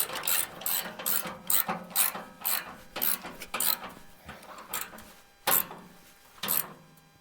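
Socket ratchet being cranked back and forth to tighten a bolt under a truck, a raspy run of pawl clicks on each back-stroke, about two strokes a second. The strokes slow and stop after a last two, a second apart, as the bolt comes tight.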